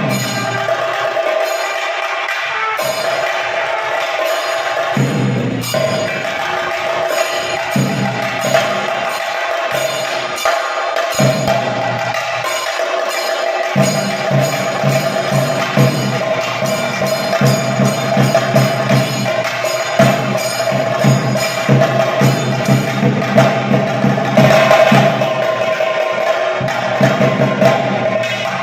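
Kerala ritual percussion for a Muthappan vellattam: fast, dense drumming with cymbal-like strikes over a steady held tone, the low drum strokes growing heavier about halfway through.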